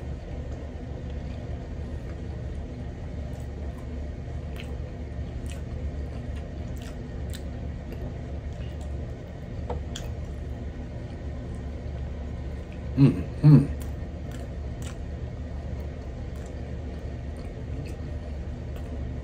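Close-up chewing and mouth sounds of a man eating a carrot dog in a soft bun, with faint scattered clicks over a steady low hum. About 13 seconds in come two short vocal sounds.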